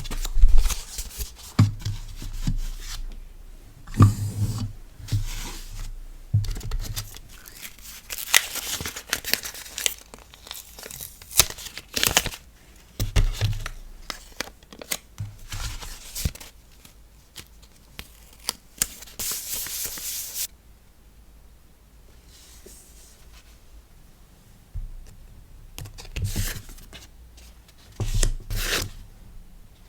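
Paper and plastic packaging being torn and crinkled by hand, with clicks and soft thumps as items are set down. About 18 seconds in comes a steady tearing rasp of about two seconds, followed by a few quieter seconds.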